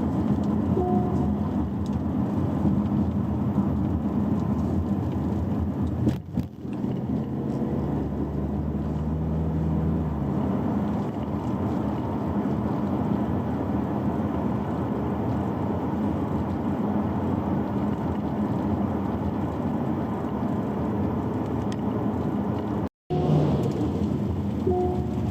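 Car driving, with steady road and tyre noise heard from inside the cabin and a short beep about a second in and again near the end.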